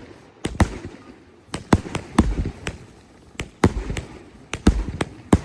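Firework cake (barrage) firing, a string of sharp, loud bangs, often in quick pairs, about one to two a second, each followed by a low rumbling echo.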